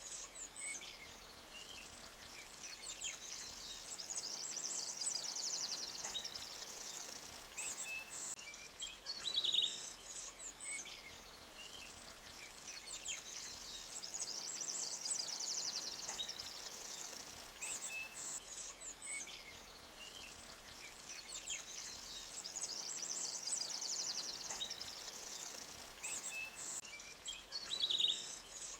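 Songbirds chirping and trilling, high and rapid, over a faint steady trickle of a small forest creek. The same run of calls comes back about every nine to ten seconds.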